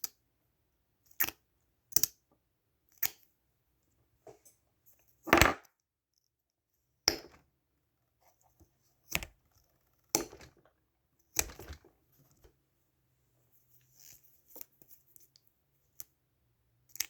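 Lip gloss tubes and caps clicking, a dozen or so separate sharp clicks every second or two, with a longer, louder one a little over five seconds in.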